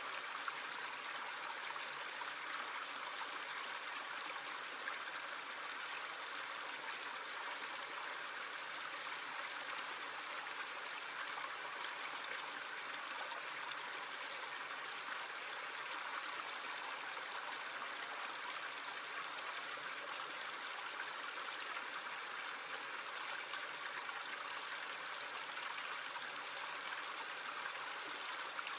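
A creek running steadily: a constant rushing, trickling water sound with no change.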